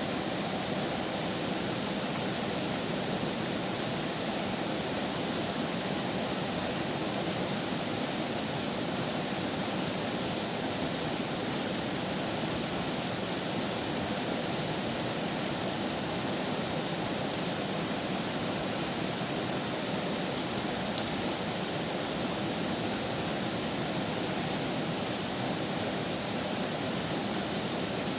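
Steady rush of flowing river water, an even, unbroken noise with no changes or separate splashes.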